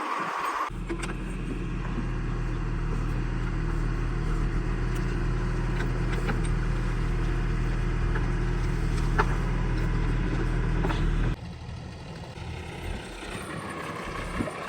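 Heavy diesel engine running steadily and close by with a strong low drone. About eleven seconds in it drops sharply to a quieter engine sound.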